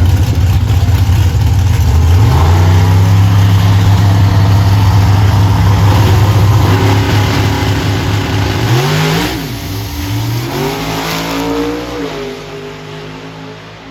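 Car engine revving up and held at high revs for several seconds, then dropping, rising again and fading as the car pulls away.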